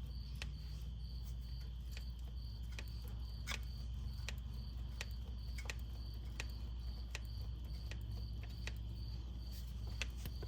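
Crickets chirping steadily, with light sharp clicks repeating about every 0.7 s.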